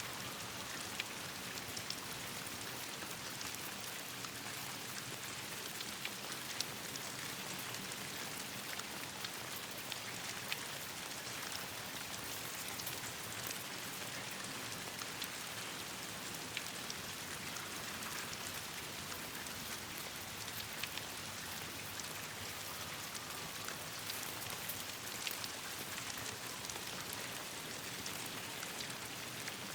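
Steady rain falling, a continuous hiss of drops with scattered sharp ticks through it.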